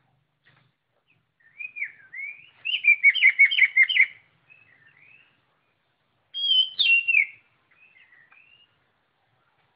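Oriental magpie-robin singing loudly: a phrase of whistled notes that breaks into a fast run of repeated notes, then after a short pause a second phrase with a falling whistle, followed by a few soft notes.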